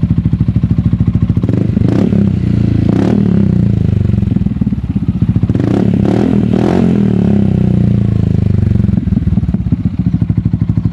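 Yamaha XMAX scooter's single-cylinder engine breathing through an Akrapovic full exhaust system, idling with an even beat, then blipped on the throttle several times between about two and nine seconds in before settling back to idle.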